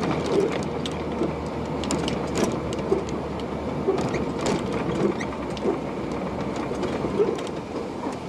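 Vehicle road noise heard from a dashcam, a steady rumble broken by many irregular clicks and knocks.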